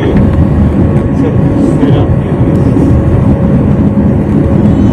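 Loud, steady rumble of a jet airliner during takeoff, heard from inside the cabin, with a faint steady hum running through it.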